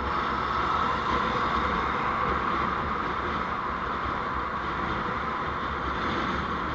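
Steady running noise of a vehicle under way: an even road-and-wind hiss over a low engine rumble, with no sudden events.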